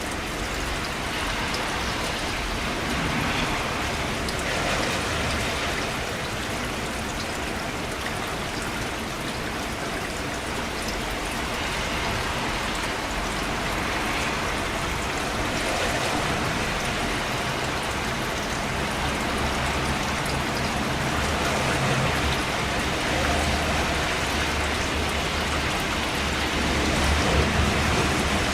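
Steady rain falling on surfaces, an even hiss of drops with gentle swells and a low rumble beneath.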